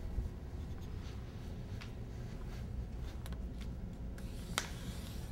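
Paper being folded and creased by hand for a paper airplane: light rustling with a few sharp crinkles, the clearest near the end, over a steady low room hum.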